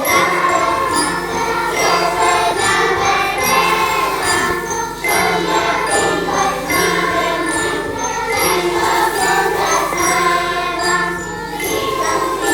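Children's choir singing a quodlibet, several melodies overlapping at once, with a light, high jingling percussion repeating over the voices.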